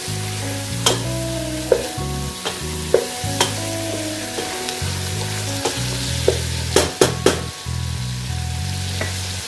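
Chicken pieces and sliced onions sizzling as they sauté in a pot, stirred with a wooden spatula that knocks against the pot now and then, with a quick cluster of knocks about seven seconds in.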